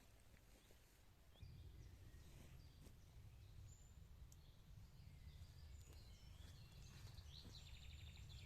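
Faint outdoor ambience: a few scattered bird chirps and a short high trill near the end, over a low steady rumble that comes in about a second and a half in.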